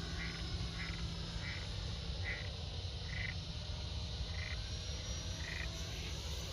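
A small frog calling: a string of short, clipped notes repeated roughly once a second, over a steady low hum.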